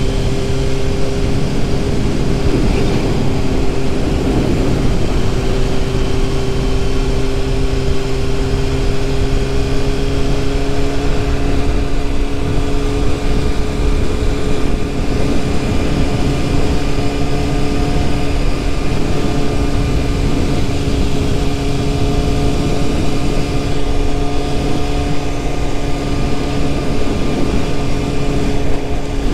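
1997 Yamaha YZF600R's inline-four engine running at a steady cruise, its pitch holding nearly level, under a constant rush of wind and road noise.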